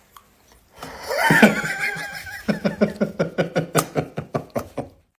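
A drawn-out voiced sound with a gliding pitch, then a quick run of rhythmic laughter, about five pulses a second, that stops shortly before the end.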